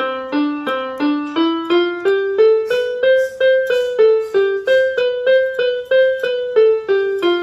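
Electronic keyboard playing a simple beginner lesson exercise: single notes struck one at a time at an even pace, about two or three a second, the tune stepping up and then back down.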